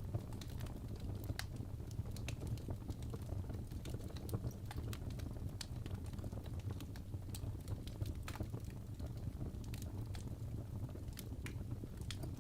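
Wood fire burning in a fireplace: a steady low rumble of flames with irregular sharp crackles and pops of the logs.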